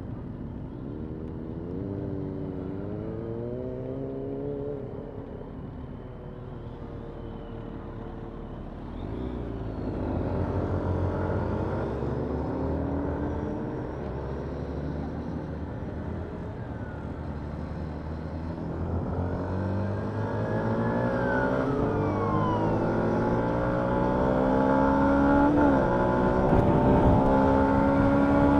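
Yamaha MT-125's single-cylinder four-stroke engine, heard from the rider's seat, accelerating through the gears. Its pitch climbs again and again with a drop at each gear change, and it grows louder toward the end.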